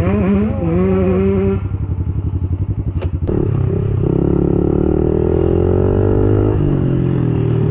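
Pit bike engine revving hard while riding. It rises and wavers, drops back about one and a half seconds in, then climbs steadily through a long pull before dropping in pitch near the end, as with a gear change.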